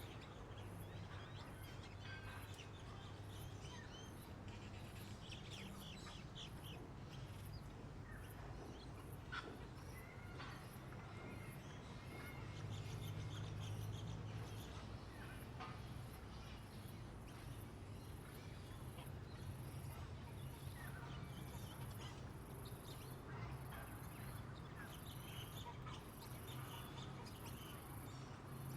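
Wild birds chirping and calling now and then over a steady low rumble. A very high-pitched insect buzz pulses about once a second and grows much stronger about two-thirds of the way through.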